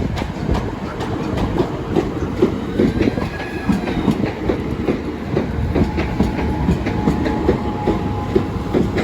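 Southeastern Class 395 Javelin electric multiple unit running past, its wheels clattering over the rail joints and the crossing with irregular sharp clicks over a continuous rumble. A faint steady tone is heard in the second half.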